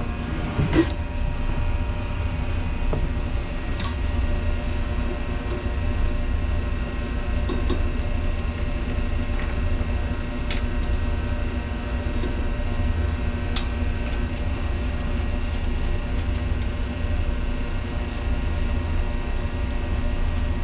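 Steady machinery hum with a low rumble and several held tones, like a ventilation fan running, broken by a few light clicks of parts being handled.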